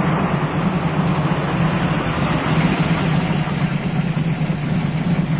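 The Callaway Sledgehammer Corvette's twin-turbocharged V8 runs with a steady low drone under a constant rushing noise.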